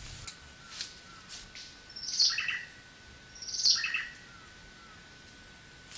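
A bird calling twice, about a second and a half apart; each call is a quick series of notes stepping down in pitch.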